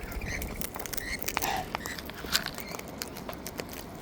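Wild birds pecking at seed: a scatter of sharp, irregular beak clicks and taps, with a few short faint chirps.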